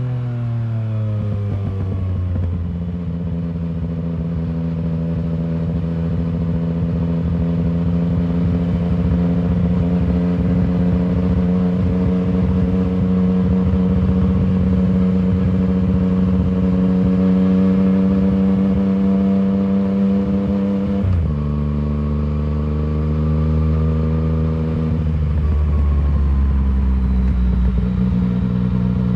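Yamaha MT-09's three-cylinder engine through an Arrow full exhaust system, under way. Its pitch falls off at the start, then holds a steady note that creeps slightly higher for a long stretch. About 21 seconds in it drops suddenly, as at a gear change, and then runs steady again.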